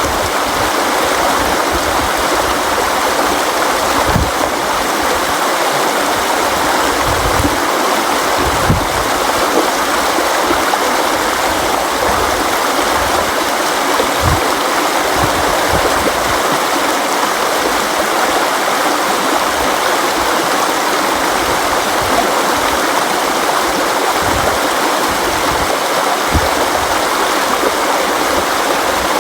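A river's water flowing in a steady rush, with occasional deeper gurgles and splashes.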